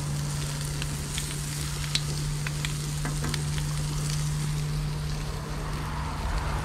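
Sausages, onion wedges and ham slices sizzling on a hot grill griddle plate, with a few light clicks of metal tongs against the griddle and a steady low hum underneath.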